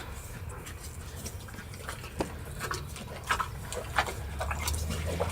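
Dog eating: scattered short crunching and smacking clicks of chewing, over a low steady hum.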